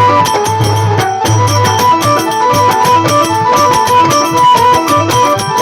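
Instrumental interlude of a Rajasthani devotional folk bhajan: a melody line of short held notes over a steady bass and a brisk regular drum beat.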